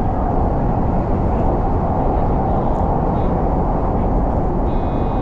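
Odakyu Line electric commuter train running at speed, a steady low rumble of wheels on rail. Near the end a cluster of high steady whining tones joins it.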